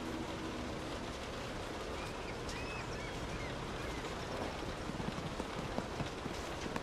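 Steady rain falling, with a few sharper drop ticks in the second half. A low steady hum fades out within the first second.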